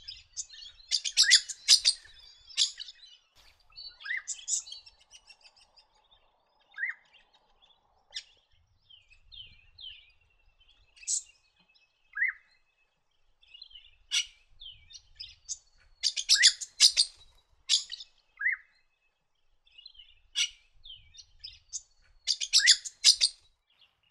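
Red-winged parrot calling: short, sharp notes throughout, with three louder clusters of rapid chattering and brief downward-sliding notes between them.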